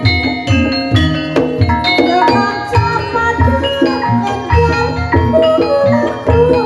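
Ebeg accompaniment music: tuned mallet percussion playing a quick, dense run of struck notes over regular low drum strokes.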